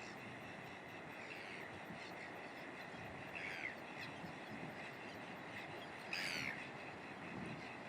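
White-fronted tern colony calling: a steady background chatter of many birds, with a few short, harsh calls standing out, the loudest about six seconds in, over a constant rushing noise.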